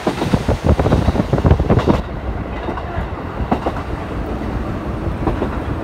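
Diesel railcar running along the line, heard from inside the passenger cabin: a quick, loud run of wheel clicks over the rail joints in the first two seconds, then a steady rumble with an occasional single click.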